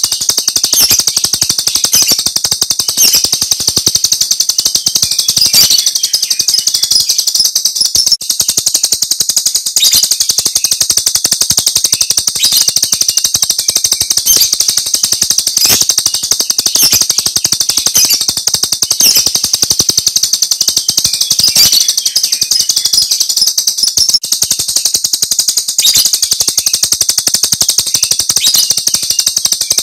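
Jalak Rio starling singing its 'tembakan' song: a continuous, high, rapid-fire chatter of fast repeated notes.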